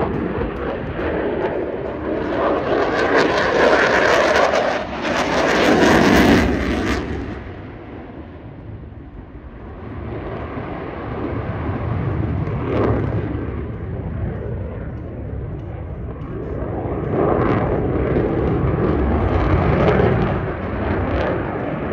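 F-22 Raptor's twin afterburning turbofan jet engines roaring through a demonstration pass, loudest a few seconds in, falling away to a lower rumble about halfway, then building again toward the end as the jet comes back around.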